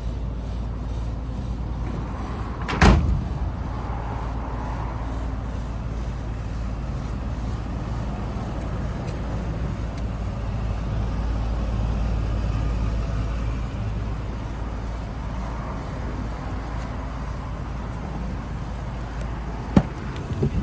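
A vehicle engine running steadily with a low rumble. There is one loud sharp slam about three seconds in, and a smaller click near the end.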